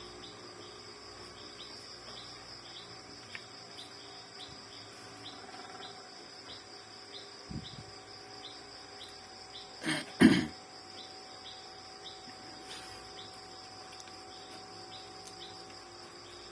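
Crickets chirping steadily in the background, a regular pulse of short high chirps over a constant high buzz. About ten seconds in, two quick loud bursts close together stand out above it.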